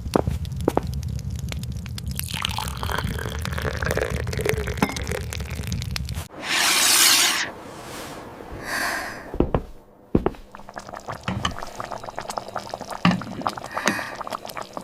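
Cooking and fireplace sounds: crackling clicks over a low rumble, then about six seconds in a loud hiss lasting about a second, a shorter hiss about two seconds later, and scattered clicks and liquid sounds.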